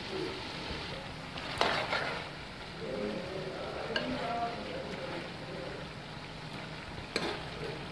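Chicken and potato pieces sizzling in oil in an aluminium pot while a metal ladle stirs them. The ladle scrapes and clinks against the pot about a second and a half in, again about four seconds in, and near the end.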